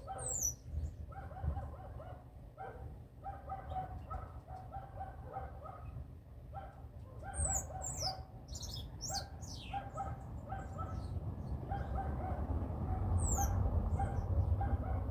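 Small birds chirping: thin, high calls that sweep downward, in a cluster near the start, a busier stretch in the middle and another near the end. Under them runs a steady string of short, lower calls repeated every fraction of a second, with a low rumble that grows louder near the end.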